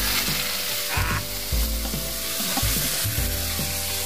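Shredded coconut palm heart sizzling in hot oil in a steel wok, stirred and scraped with a metal ladle. The hiss is steady and loud, with low knocks from the ladle against the pan.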